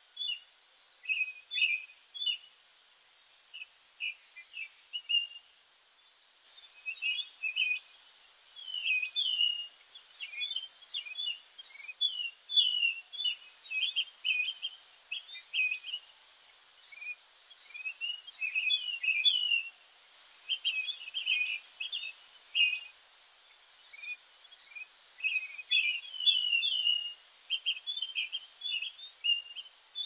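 Several small birds chirping and singing together: many short, high chirps and whistled notes, with a fast, buzzy trill repeated every few seconds.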